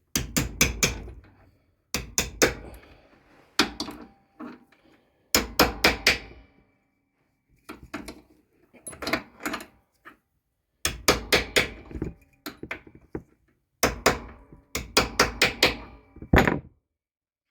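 Hammer lightly tapping a 3/8-inch drive socket and washer to seat a new axle wheel seal on a Hydro-Gear lawn tractor transmission: clusters of quick metallic taps every second or two, some leaving a brief ring.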